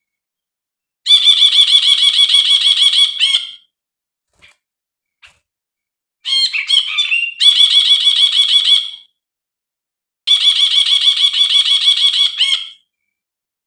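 Brinji, a bulbul, singing in three loud phrases of rapid repeated notes, each about two and a half seconds long, with short silent pauses between them.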